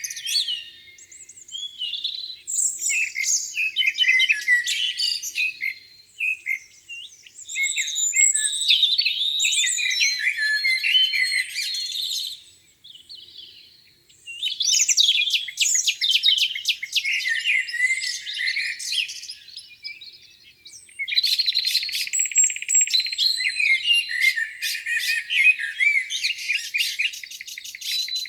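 Several songbirds singing at once in overlapping chirping and warbling phrases that come in bouts, with a brief lull about halfway through.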